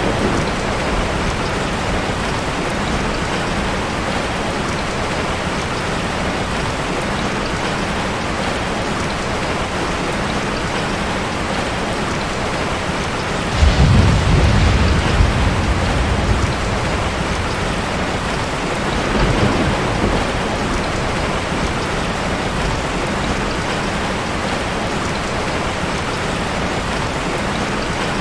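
Ocean surf washing steadily, with a wave breaking in a sudden low rumble about halfway through that lasts a few seconds, and a smaller one a little later.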